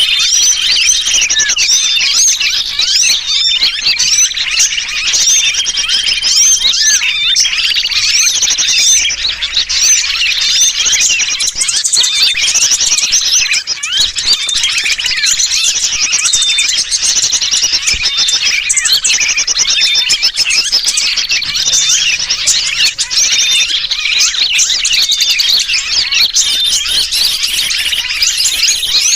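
Bird-lure recording of a dense chorus of small birds chirping and calling over one another, mixed with the distressed calls of a sooty-headed bulbul (kutilang). The calls are loud and continuous, and a short high note repeats every second or two.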